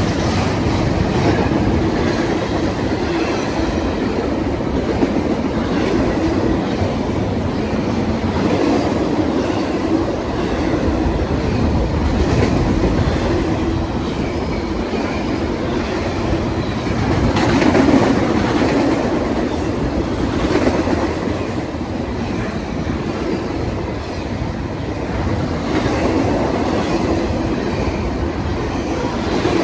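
Double-stack intermodal container well cars rolling past: a steady rumble of steel wheels on the rails, with faint repeated clicks, swelling briefly a little past halfway.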